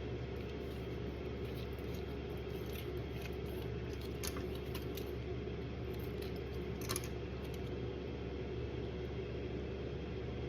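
A few light clinks and scrapes of utensils and containers being handled at a meal, over a steady low background hum.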